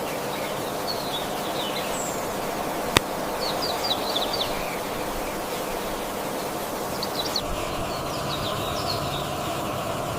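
Outdoor ambience with a steady hiss and small birds chirping in short clusters, and a single sharp click about three seconds in.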